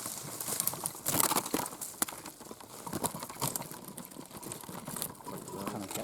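Rustling leaves and snapping twigs as someone pushes through thorny gorse scrub, an uneven crackle of close-up brush handling.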